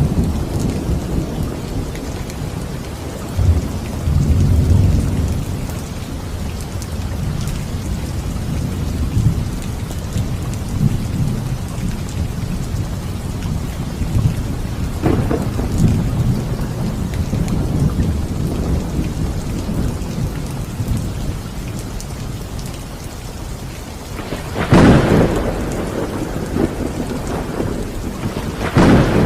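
Steady rain with low thunder rumbling and rolling underneath. Sharp thunderclaps crack about halfway through and twice near the end, the first of those two the loudest.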